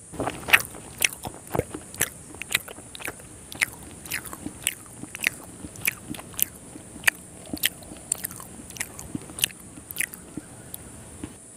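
Close-miked chewing of a soft, syrupy Indian sweet: wet mouth smacks and clicks at about two a second. They stop abruptly near the end.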